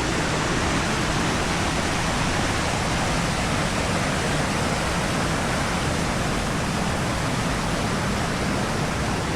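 Big Sioux River waterfall rushing over quartzite ledges: a loud, steady, dense rush of falling water.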